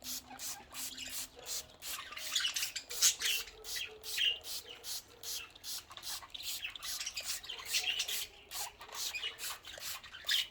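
Hand spray bottle misting water over budgies, fired in quick even squirts about four times a second, while the budgies chirp.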